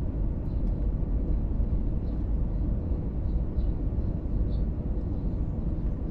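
Steady low rumble of an Airbus A320 heard from inside the passenger cabin as the airliner comes in to land, with a faint steady hum in the noise.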